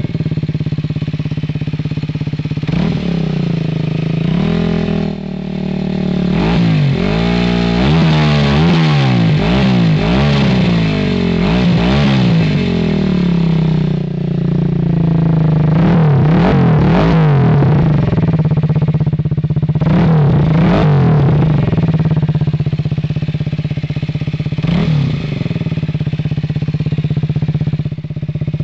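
MZ 125 SM's single-cylinder four-stroke engine idling through its stock exhaust with the silencer emptied, blipped up and down repeatedly in rising and falling revs, with a busy run of blips in the first half and a few single blips later.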